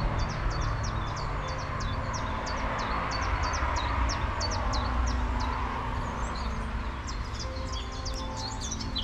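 Songbirds singing in the surrounding trees: rapid series of short, high chirps that thin out about six seconds in and pick up again near the end, over a steady low rumble.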